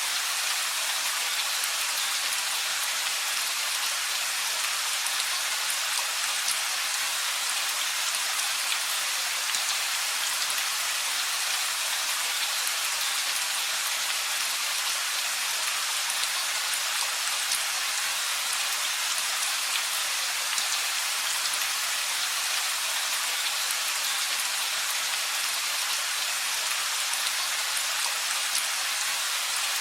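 Steady rain falling, an even hiss with scattered drops ticking on surfaces throughout.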